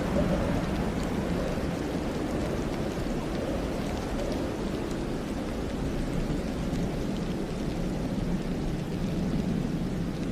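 Steady wind rushing through snow-laden pine forest, a deep even noise with faint scattered light ticks of falling snow.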